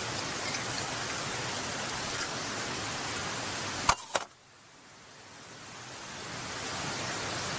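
Steady hissing noise, broken by two sharp clicks close together about four seconds in, after which the noise drops away suddenly and slowly swells back.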